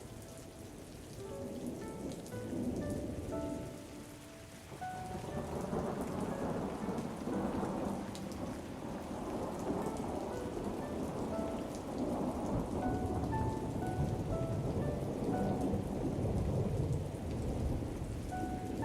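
Steady rain with rolling thunder that swells about five seconds in and keeps rumbling. A quiet melody of short, separate notes plays underneath.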